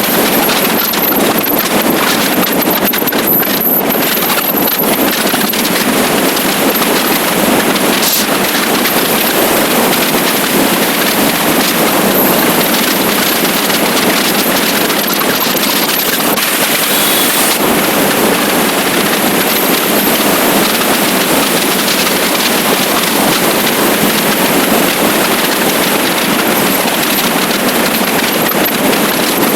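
Steady loud wind rush over the microphone of a moving motorcycle, with its engine running underneath.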